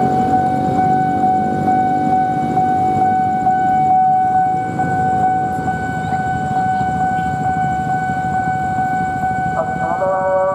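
Level-crossing warning alarm sounding one steady high tone without a break, over a low rumble of waiting traffic. Near the end an approaching train's multi-tone horn starts blowing, its notes bending slightly in pitch.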